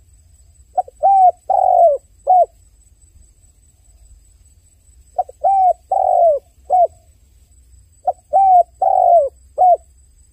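Dove cooing: three repeats of the same phrase, each of about four coos, the third coo longer and falling in pitch, a few seconds apart.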